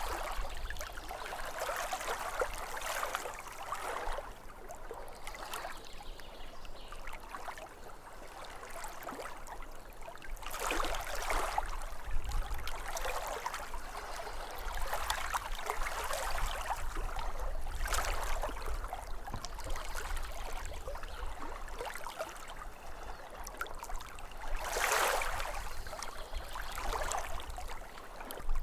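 Small waves lapping at a lake shore, a steady wash of water that swells and ebbs every few seconds, with a louder wash about 25 seconds in.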